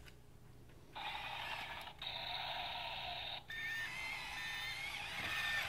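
Toy excavator's electronic sound effects through its small built-in speaker: a tinny sound clip that switches on about a second in, breaks briefly and cuts off sharply, followed by a fainter sound with a few steady tones.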